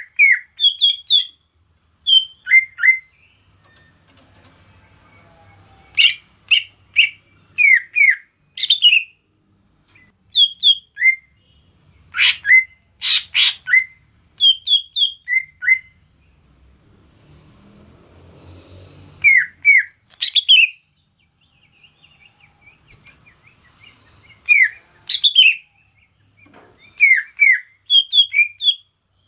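Cucak ijo (green leafbird) singing: quick groups of short, loud whistled notes, broken by pauses of a few seconds.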